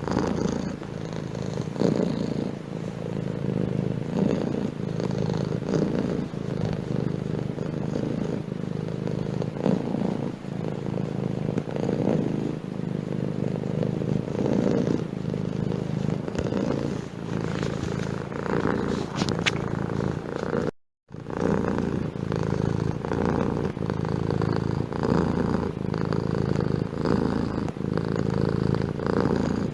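Domestic cat purring steadily and close up, swelling and easing in a regular rhythm. It breaks off for a moment about two-thirds of the way through, then carries on.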